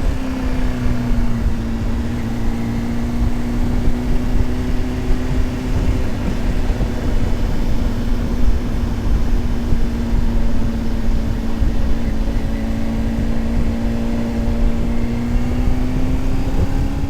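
Honda CBR600RR inline-four engine running at steady cruising revs under wind and road noise, its pitch easing down just after the start and creeping up a little near the end.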